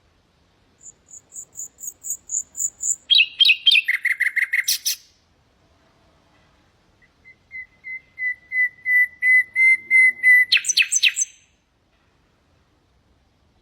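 Common nightingale singing in separate phrases. A row of about ten quick high notes grows louder, then comes a rapid rattling trill. After a pause, a slow run of pure whistled notes on one pitch swells in loudness and ends in a few harsh notes.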